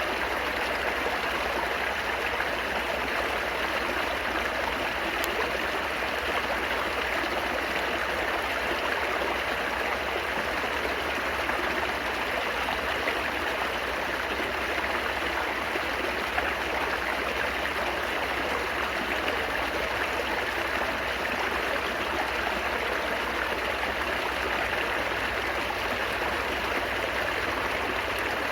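Steadily babbling, splashing water, like a small stream running over stones, with an even rush that does not change.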